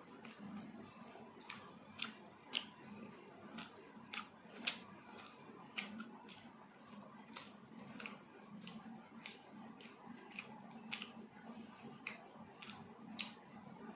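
A person chewing food, with irregular sharp wet mouth clicks, about one or two a second.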